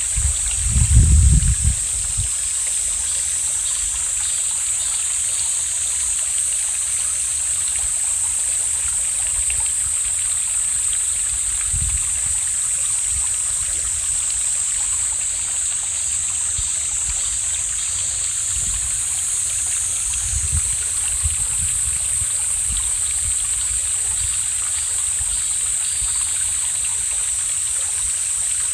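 Mountain valley stream flowing steadily, a constant rushing hiss strongest in the high treble. A few brief low rumbles break through, the loudest about a second in.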